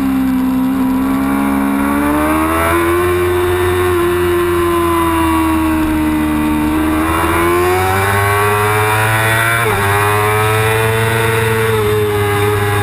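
Yamaha R6 race bike's inline-four engine at racing revs, heard onboard. The pitch climbs, holds, sags, then climbs again, with a quick break about ten seconds in, as at a gear change.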